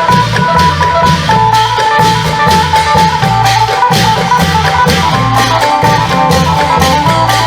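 Isan klong yao music: a phin lute plays a repeating melody over a steady rhythm of long drums and sharp percussion strokes.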